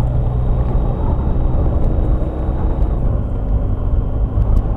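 Motorcycle engine running steadily, a constant low tone.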